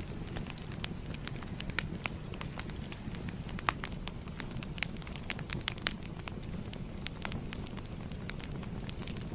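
Wood fire crackling, with a steady low rumble of flames and frequent irregular sharp pops and snaps.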